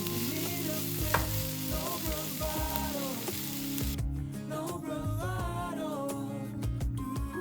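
Food sizzling in a frying pan, with a click about a second in. The sizzling cuts off suddenly about four seconds in, leaving only a background song with singing.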